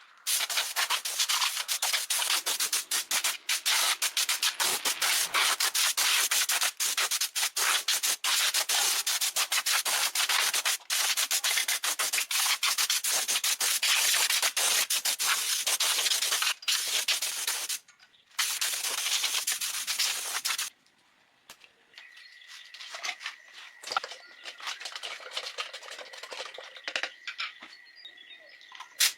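Sanding or abrading metal parts: a steady scraping that runs for about twenty seconds with two brief pauses. It then stops, leaving a quieter stretch with a faint steady high tone.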